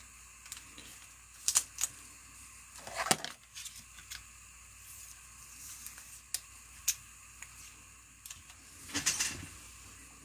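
Trading cards and plastic card holders being handled: scattered light clicks, taps and short rustles, with small clusters about a second and a half in, around three seconds in, and near the end.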